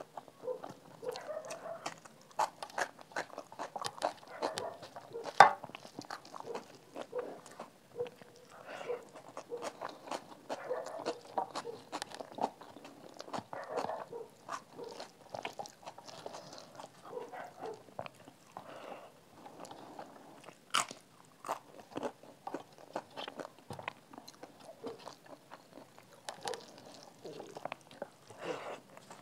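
Close-miked eating sounds: a person chewing mouthfuls of rice and dal eaten by hand, with crunchy bites and many sharp mouth clicks. One crunch about five seconds in is much louder than the rest.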